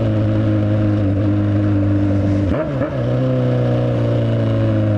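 Motorcycle engine running steadily at speed, one held note with a brief dip and recovery in pitch about two and a half seconds in.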